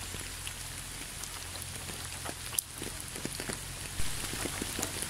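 Recorded rain falling steadily on a surface, an even hiss dotted with individual drop taps, one a little louder about four seconds in, over a faint low hum.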